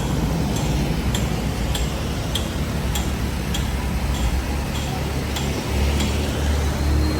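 Vehicle engine idling with a steady low rumble, under a regular sharp ticking a little under two times a second.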